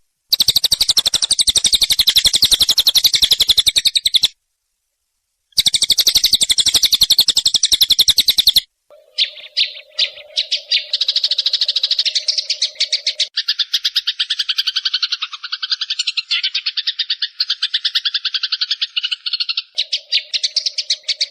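Eurasian tree sparrows giving rapid-fire fighting calls: fast, dense trains of high chirps. The chirping stops abruptly about four seconds in, resumes a second later, cuts off again near the middle, then returns as a busier run of chirps with a steady lower buzzing note underneath at times.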